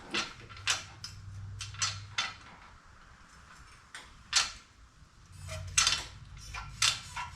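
Small steel parts and hand tools clinking against each other in a scatter of sharp, irregular clicks and taps. The loudest strikes come about four and a half and six seconds in, consistent with fiddling a snap ring back onto a transmission jack's pin.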